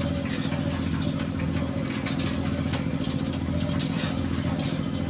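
Diesel engine of a heavy construction machine running steadily, with irregular light clattering over it.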